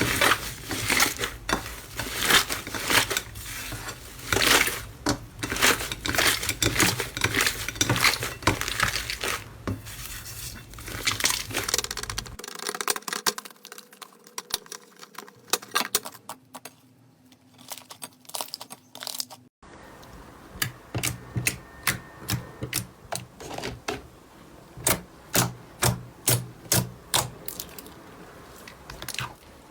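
Slime being squeezed and pressed by hand, crackling and popping densely at first, then quieter. After a sudden change it gives sharp pops at about two a second.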